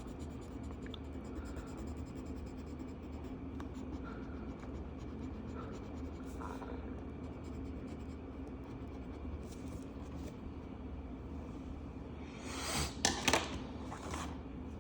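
Marker tip scratching on paper while colouring in, faint strokes over a steady low room hum, with a louder, quicker run of scratchy strokes about thirteen seconds in.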